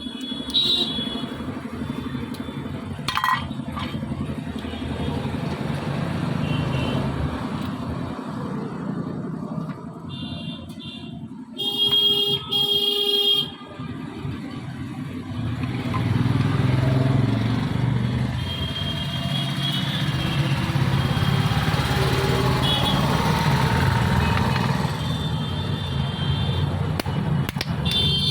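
Road traffic running steadily, with vehicle horns honking, loudest about twelve to thirteen seconds in.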